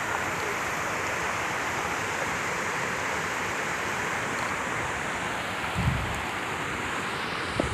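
A steady rushing noise, with a brief low thump about six seconds in.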